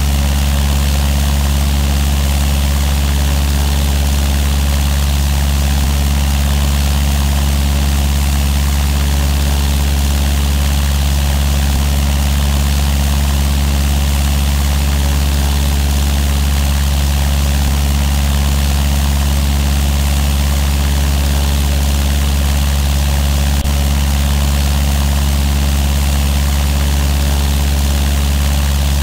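Cessna 172's piston engine and propeller running with a loud, steady, unchanging drone.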